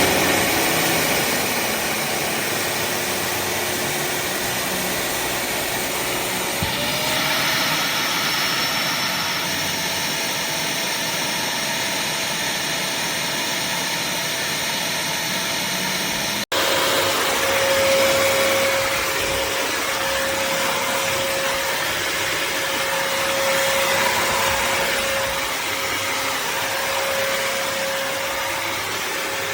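Bissell CrossWave HydroSteam Pet wet-dry vacuum running steadily, its motor and brush roll whirring; it breaks off for an instant about halfway through, then carries on with a steady hum added.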